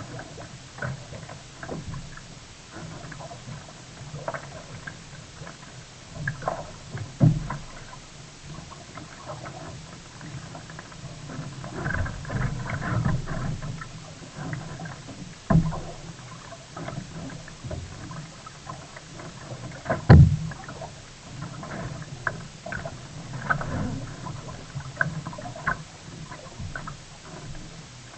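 Sea kayak on the water: irregular paddle splashes and water slapping, with a few sharp knocks against the hull, the loudest about twenty seconds in.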